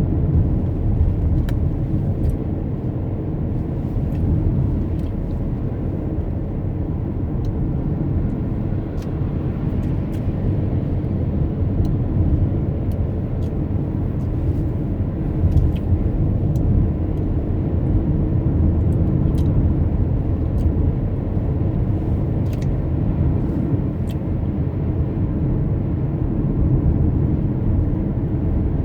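Steady low rumble of a car driving: road and engine noise heard from inside the moving car, with faint scattered ticks.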